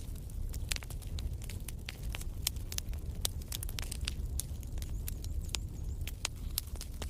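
Wood fire in a fireplace crackling: many sharp pops and snaps, several a second, over a low steady rumble of the flames.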